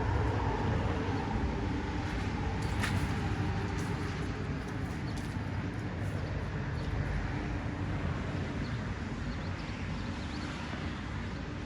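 Steady low rumbling background noise, with a faint click about three seconds in.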